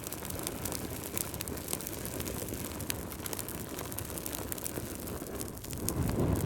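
Wood fire burning in a fireplace: frequent sharp crackles and pops over a steady low rumble of flames, the rumble swelling louder near the end.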